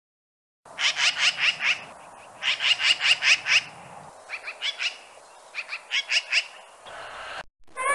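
A bird giving rapid, harsh chattering calls in four bursts of four to six notes each, about five notes a second.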